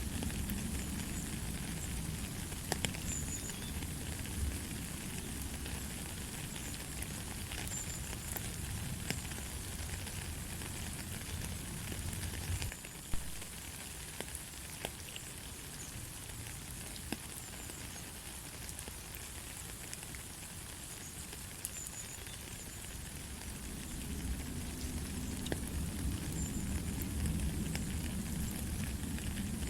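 Light, steady rain with scattered sharp drip ticks. A low rumble under it drops away about halfway through and comes back near the end.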